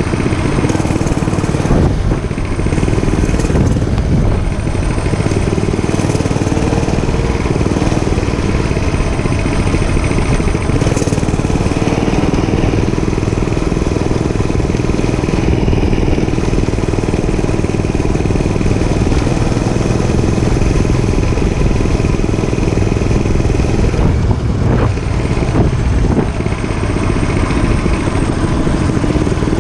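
Dirt bike engine running at a fairly steady pitch during a ride.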